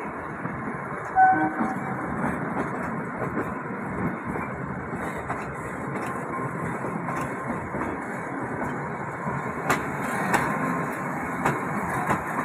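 Kalka–Shimla narrow-gauge toy train rolling slowly into the station: a steady rumble of the carriage, with wheels clicking over rail joints and points, most clearly in the last few seconds. A short loud tone sounds about a second in.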